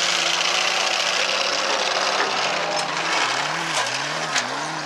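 Stock car engines running on a dirt track. From about three seconds in, one engine revs up and down repeatedly in quick succession. A few short sharp knocks come near the end.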